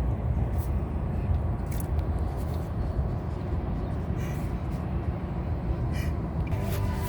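Steady low rumble of a car driving along the road, road and engine noise, with a few faint clicks.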